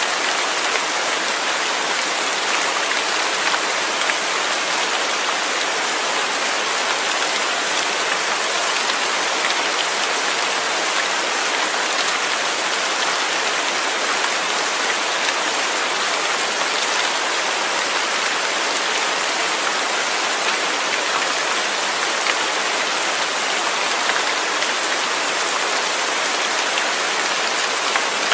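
Steady rain falling and pattering on a surface, a dense even hiss with scattered individual drops.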